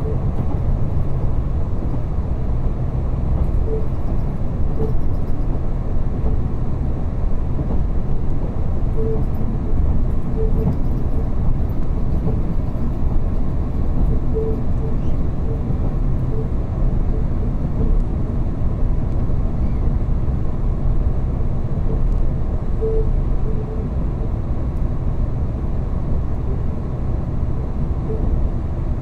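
Diesel train running along the line, heard from inside the passenger car: a steady low rumble, with a few short faint tones coming and going.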